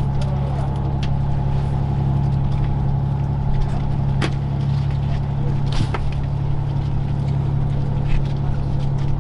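Charter fishing boat's engine running with a steady, even hum. Two sharp knocks come about four and six seconds in.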